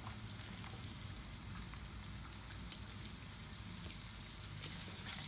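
Onion, garlic and ginger frying in oil in a hot wok: a faint steady sizzle with a few small ticks, growing louder near the end, over a low steady hum.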